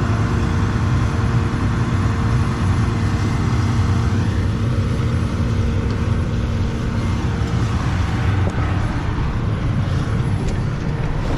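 Combine harvester running with a steady low engine drone. A steadier hum on top fades out about seven seconds in.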